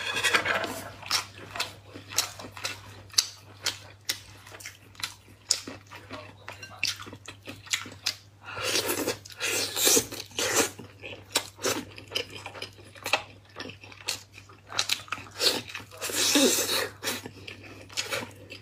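Close-miked mouth sounds of a person eating: rapid wet chewing clicks and smacks throughout. Two louder stretches of biting and crunching come about halfway through and again near the end.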